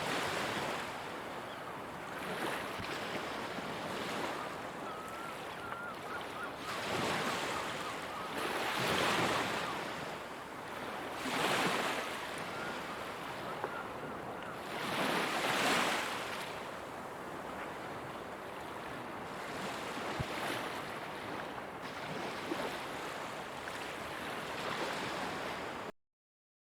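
Ocean surf: a steady wash of waves with a swell breaking and surging louder every few seconds. It cuts off suddenly near the end.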